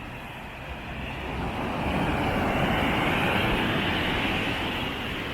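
Surf: a wave rolls in and breaks on the beach, its rushing wash swelling about a second and a half in and slowly easing off.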